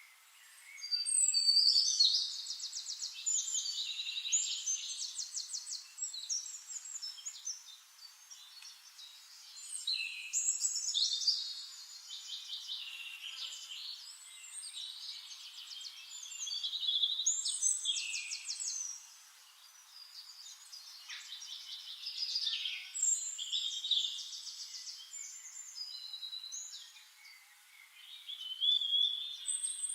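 A songbird singing long, varied phrases of rapid trills and whistles, each a few seconds long with short pauses between, about five phrases in all.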